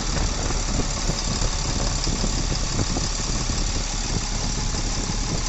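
Tata truck's Cummins BS4 diesel engine idling steadily after a new valve was fitted. The sound is smooth ("sweet"), and the tak-tak knocking fault is taken to be cured.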